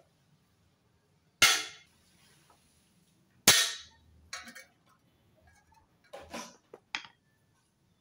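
Sharp knocks of metal being struck on a dismantled motorcycle exhaust: two hard blows about a second and a half and three and a half seconds in, the first leaving a short high ring, then several lighter knocks.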